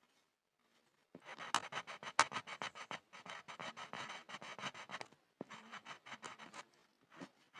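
Pencil scribbling on a board: quick back-and-forth scratching strokes in runs, starting about a second in, with two short pauses before the end.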